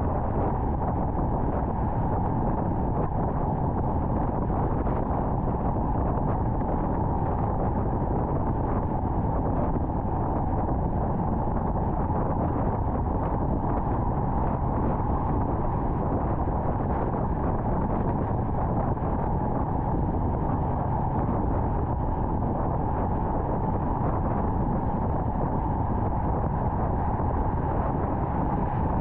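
Steady road and wind noise from a car driving at highway speed, an even rumble that does not change.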